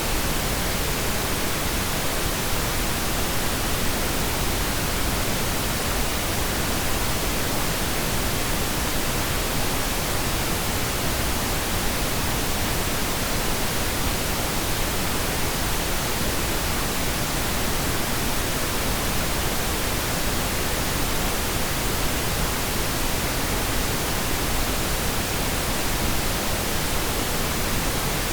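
Steady pink noise: an even, unchanging hiss spread across the whole range from deep rumble to high hiss.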